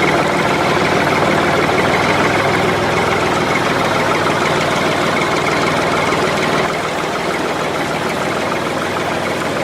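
Steady tractor-style engine running at idle with a knocking rhythm, a little quieter from about two-thirds of the way in.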